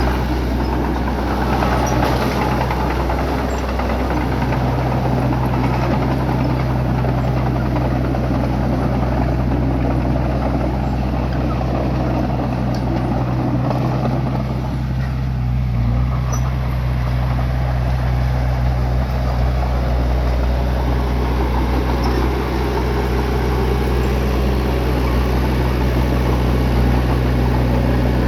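Bulldozer's diesel engine running steadily with a low hum and heavy mechanical noise, easing briefly about halfway through.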